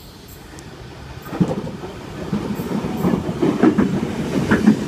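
Eight-car Tangara electric train running through the station, its wheels clattering over rail joints, growing louder from about a second in as it comes closer.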